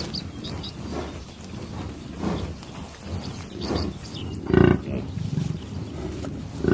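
Animal calls: several short, low, rough calls, the loudest about four and a half seconds in, with a few short high chirps near the start.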